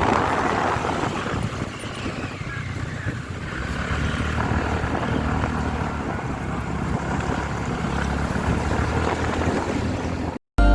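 Motorcycle engine running while riding, with wind buffeting the microphone; the low engine hum grows stronger about four seconds in. It cuts off abruptly just before the end.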